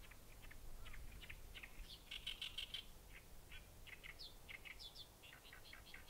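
Small birds chirping: short, high notes in quick runs scattered throughout, with a denser flurry about two seconds in.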